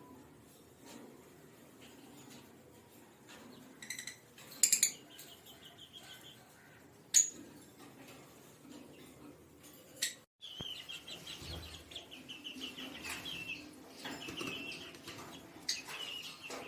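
Pet birds chirping: a few sharp, scattered high chirps and clicks, then a fast run of repeated high chirps over the last six seconds or so.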